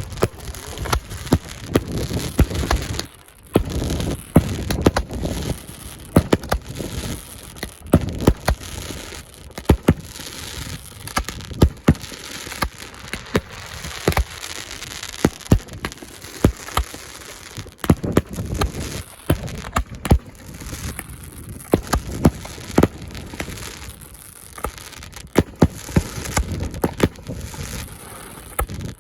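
Fireworks going off: a long run of sharp bangs and crackles at uneven intervals, over a steady hiss.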